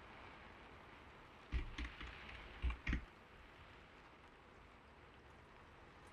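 A short run of about five keystrokes on a creamy-sounding keyboard, starting about a second and a half in and stopping about three seconds in, over a steady hiss of gentle rain.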